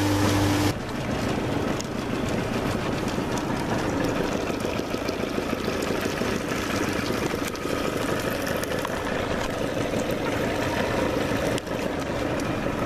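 Boat's motor running under way, heard as a dense, rough rushing noise with irregular crackle. A steady low hum cuts off under a second in.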